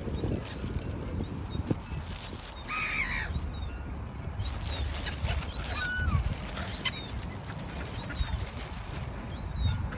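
Birds calling: one loud, harsh squawk about three seconds in, with short chirps and whistles scattered around it, over a steady low rumble.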